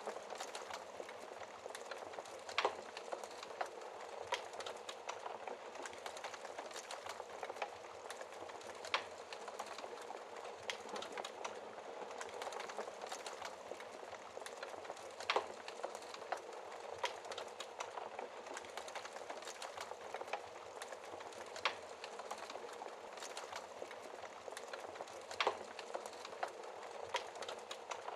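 Wood fire crackling, with many small crackles and a handful of sharper pops from the burning logs, over a steady hiss of rain.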